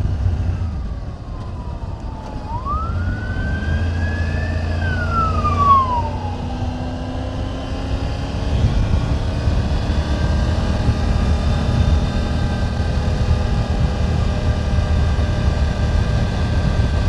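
Triumph Tiger 900 GT Pro's inline-three engine running under way over a low wind and road rumble. A few seconds in, a whine drops, climbs for about two seconds and falls away again as engine speed rises and falls. It then settles into a steady pitch.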